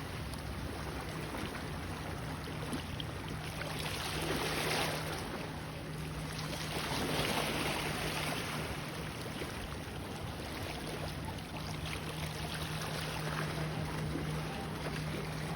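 Small waves washing against a lava-rock shoreline, the wash swelling about four seconds in and again about seven seconds in, over a steady low hum.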